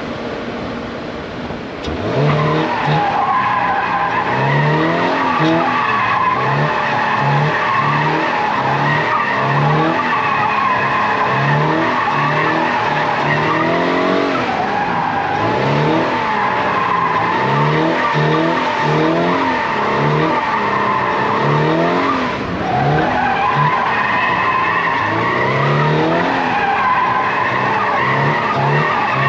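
Toyota GR86's flat-four engine revving up and down while drifting, its tyres squealing in a long wavering screech that rises in strength about two seconds in and dips briefly near the end.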